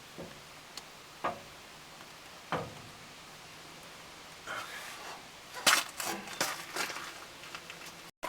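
Metal hand tools clinking against metal: three sharp, separate clinks in the first few seconds, then a busier stretch of clattering and knocking.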